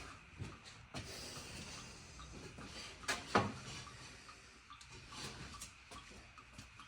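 Faint clinks and knocks of tools and loose metal engine parts being handled, with two louder knocks about three seconds in.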